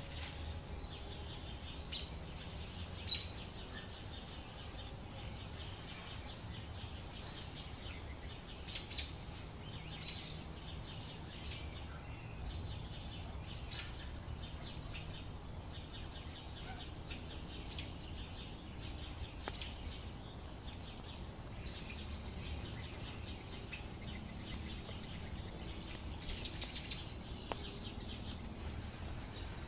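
Birds chirping, short high calls scattered throughout with a denser flurry near the end, over a steady low outdoor background noise.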